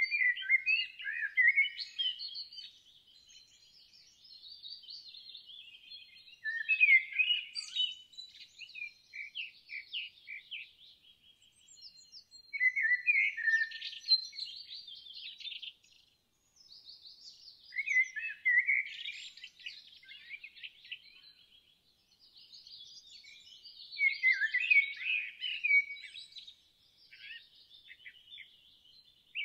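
Songbirds singing: bright phrases of chirps and trills come about every five to six seconds, with softer chirping in between.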